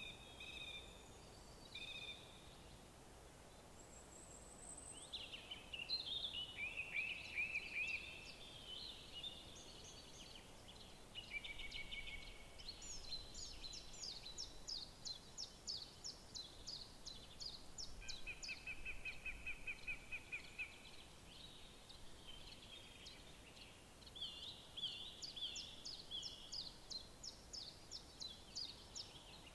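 Several songbirds singing at once in woodland, with overlapping whistled phrases and rapid trills, over a faint steady background hiss.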